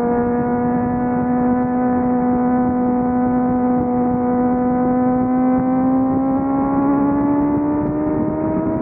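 Suzuki GSXR600 inline-four engine and exhaust pulling steadily at high revs in one gear. Its pitch holds steady, then rises slowly over the last few seconds as the bike gathers speed.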